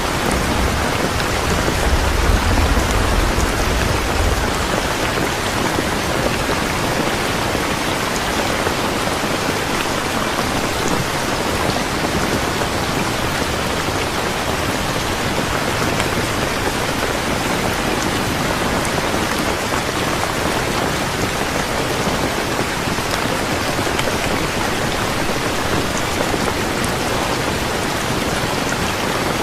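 Steady rain falling, an even hiss of drops on a surface. A low rumble of distant thunder fades out about four seconds in.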